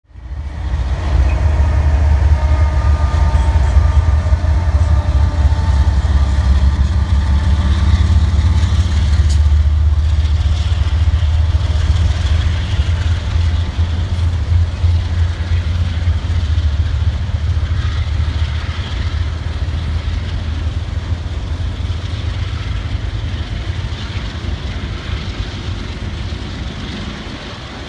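Freight train passing: a Norfolk Southern diesel locomotive, then autorack cars rolling by on the rails, with a deep steady rumble that eases slightly near the end.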